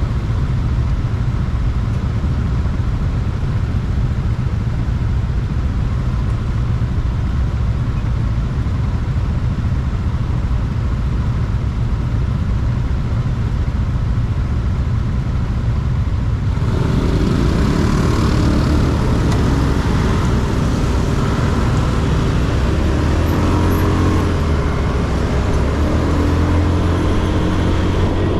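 Motorcycle engine running with wind and road rush while riding. A little over halfway through it gets louder and brighter, with distinct engine notes coming through.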